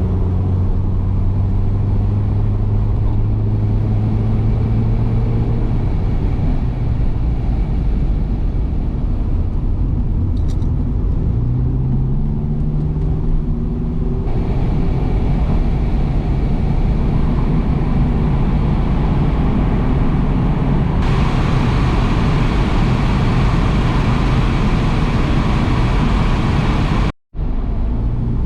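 1993 SAAB 900 Turbo S's 2.0-litre turbocharged 16-valve four-cylinder engine running while driving, its pitch holding steady, then dropping and rising again as the car changes speed. Road and wind noise grow louder about halfway through and again later, and the sound cuts out for an instant near the end.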